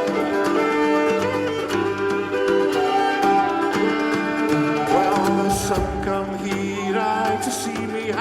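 Live Scottish folk band playing an instrumental break between verses, with a fiddle carrying the tune over the band. A few short cymbal-like splashes come in past the middle.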